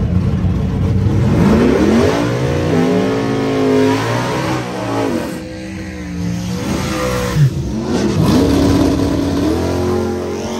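Race truck's engine revving and pulling hard, its pitch climbing, holding, dropping and climbing again several times.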